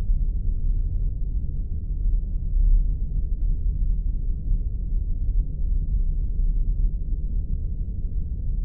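Spaceship engine sound effect: a steady, deep low rumble that wavers slightly in level, with faint scattered ticks above it.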